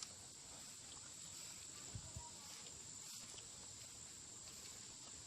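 Steady high-pitched insect chorus, like crickets, with a couple of faint low knocks about two seconds in.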